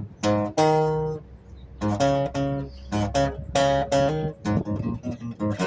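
Acoustic guitar strummed in a reggae rhythm, short choppy chord strokes mixed with a few chords left ringing.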